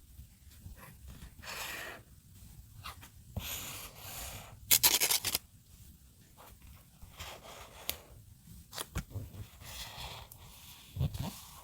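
Paper crafting with paper and masking tape: a series of short rasping strokes of cutting or tearing, the loudest about five seconds in, between soft rustles and light taps.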